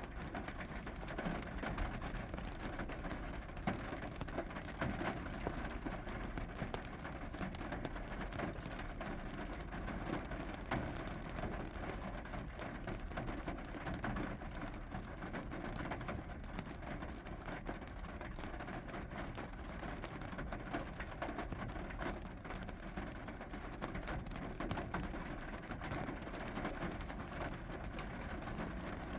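Steady rain falling, with a constant hiss and many separate drops ticking throughout.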